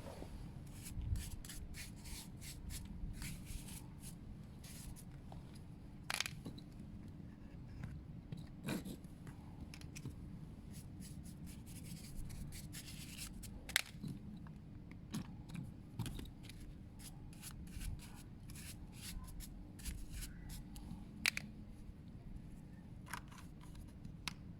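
Irregular small clicks, rubs and scrapes of hand work on a motorcycle exhaust as it is treated with toilet cleaner, over a faint steady hum.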